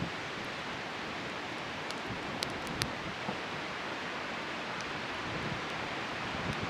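Wood bonfire burning with a steady hiss and a few sharp crackles and pops, clustered about two to three seconds in.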